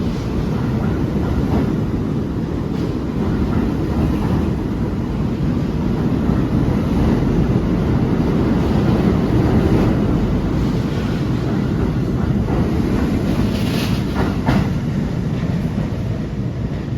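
New York City subway train running along the station track, with a steady low rumble and wheels clicking over rail joints about once a second. There is a brief higher-pitched squeal near the end.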